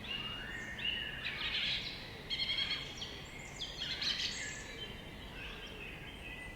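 Several songbirds chirping and trilling over a faint steady outdoor background, with the busiest calls in the first half.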